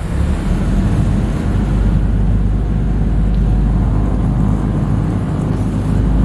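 A tour boat's diesel engine running steadily, a loud low drone.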